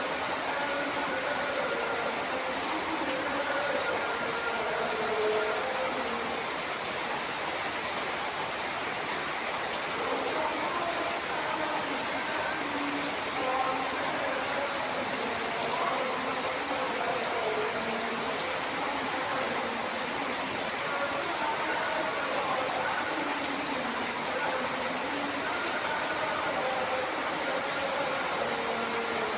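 Steady morning rain falling, a constant even hiss with scattered sharp drip clicks.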